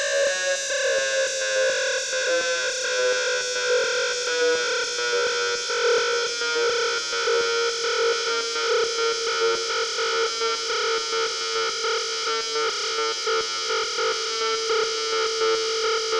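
Arturia Buchla Easel V software synthesizer holding a single distorted, hissy drone on one mid-pitched note that sags slightly in pitch. A recurring warble wobbles through the note.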